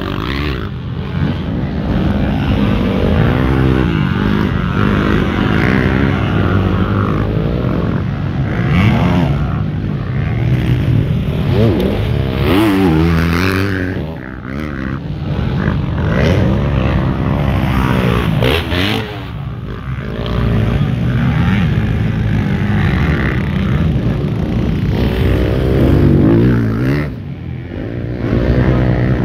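Several motocross motorcycles running together, their engines revving up and falling back, with the pitches overlapping and dropping briefly a few times.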